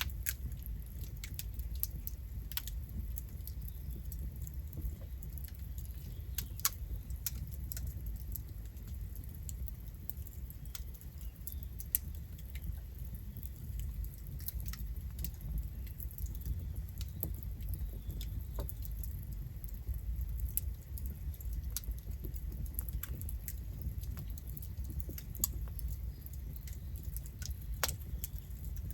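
Campfire burning: irregular crackles and sharp pops from the burning wood over a steady low rumble, with a few louder pops scattered through.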